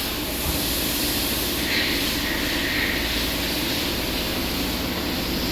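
Steady machine-like drone with hiss and low rumble, even throughout, with no distinct knocks or changes.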